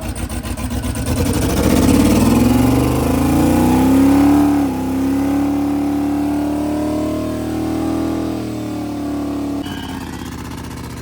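Twin-turbo LS V8 in a Mercedes limo revving hard in a burnout attempt: the pitch climbs over the first few seconds, holds at high revs with a brief dip, then drops away abruptly near the end.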